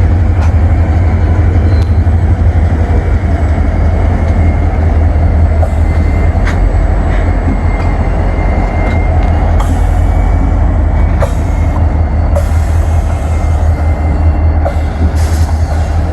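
CSX freight train rolling past close by: a loud, steady low rumble of locomotives and cars, with irregular clicks and knocks from the wheels and running gear.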